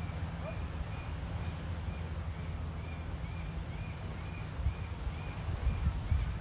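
A bird or small animal giving a short high chirp over and over, about two a second, over a steady low hum.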